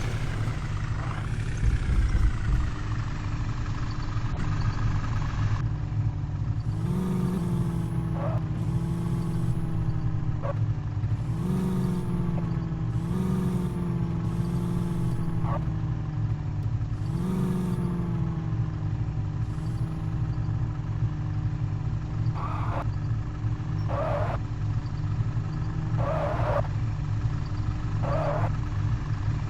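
Truck engine idling steadily and revving up briefly several times. Near the end come four short bursts of noise about two seconds apart.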